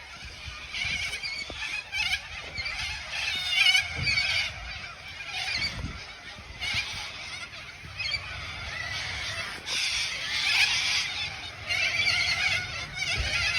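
A large flock of birds calling all at once, a dense din of overlapping calls that swells and fades every second or two.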